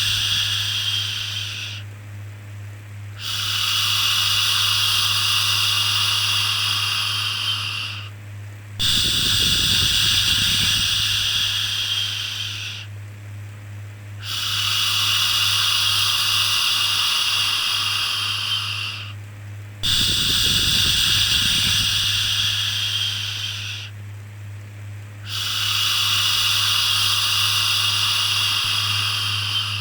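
Repeated long "shhh" shushing sounds for soothing a baby, each lasting about four to five seconds and tapering off before a short pause, about six in all. A steady low hum runs underneath.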